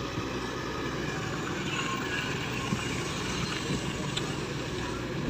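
Shantui excavator's diesel engine running steadily under work, with a few faint clanks.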